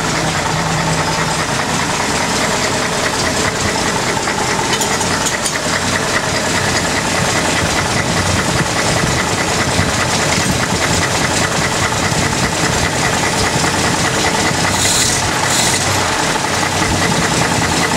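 1948 Bedford K-series truck's straight-six engine idling steadily, well under a minute after a cold start, and running smoothly.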